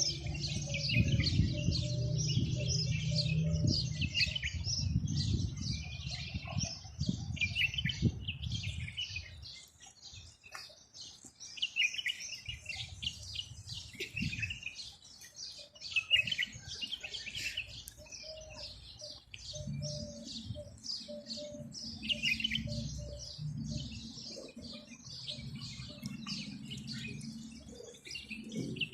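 Many small birds chirping and twittering without a break, a busy chorus of short high calls. Underneath, a low murmur runs through the first third and comes back near the end.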